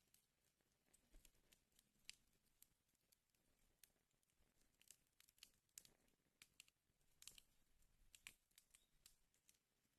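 Wood fire in a fireplace crackling faintly, with irregular sharp pops and snaps.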